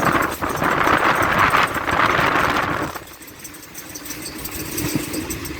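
Moving train: a loud rushing, rumbling running noise that drops off sharply about three seconds in, leaving a quieter rumble that slowly builds again.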